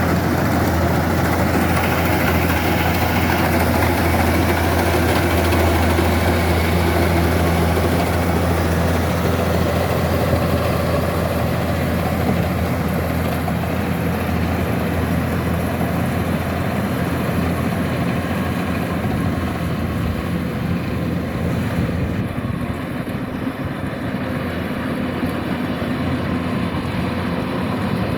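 Kubota combine harvester's diesel engine and machinery running steadily with a strong low hum while harvesting rice, easing slightly in the last third.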